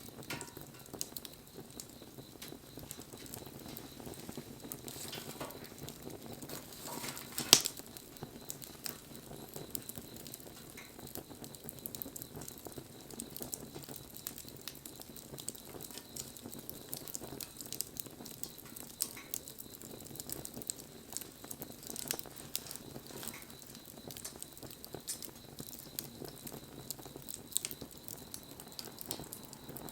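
Wood fire burning with a steady hiss and frequent small crackles, and one loud pop about a quarter of the way in.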